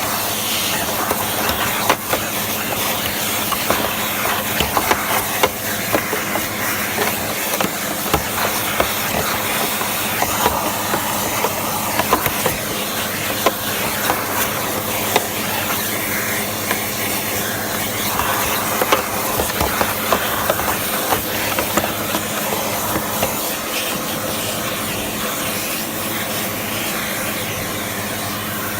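Sebo X1 vacuum cleaner running steadily, a loud rush of suction air with a low hum, while dust is cleaned out of a Hoover Dust Manager. Frequent clicks and knocks of the tool and grit sound against the plastic throughout.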